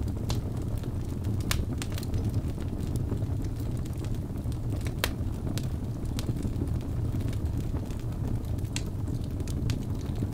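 Wood fire burning in a fireplace: a steady low rumble of flames with scattered sharp crackles and pops, the loudest about a second and a half, five seconds and nine seconds in.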